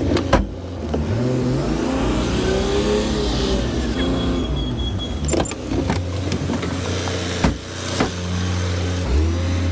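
Rear-loader garbage truck's engine revving up and down as the hopper compactor runs, with sharp cracks and knocks of rubbish being crushed, the loudest about seven and a half seconds in. A brief high beeping sounds about four seconds in.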